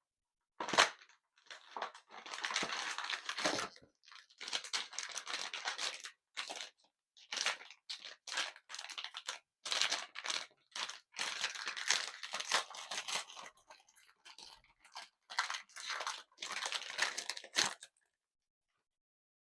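Blind-box packaging being torn and crinkled open by hand, in irregular rustling bursts that stop shortly before the end.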